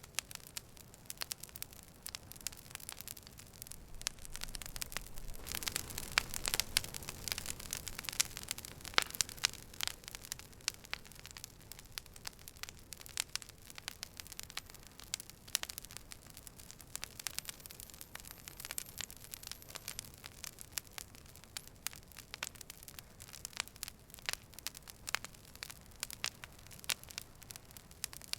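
Campfire burning, its wood crackling and popping in rapid, irregular sharp snaps over a low steady rush of flame, busiest in the first third.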